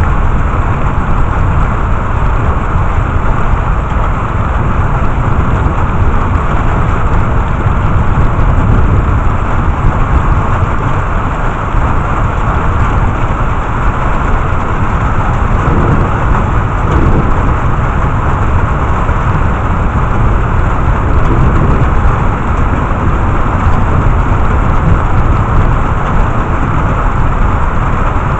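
Heavy rain falling in a steady downpour: a dense, even hiss over a constant low rumble.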